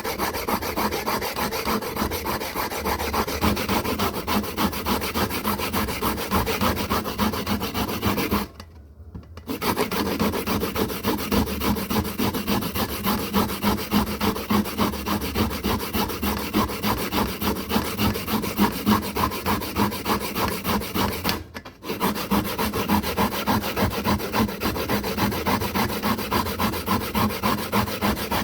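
Fast, continuous scraping strokes of a hand tool working a hard surface, stopping briefly twice.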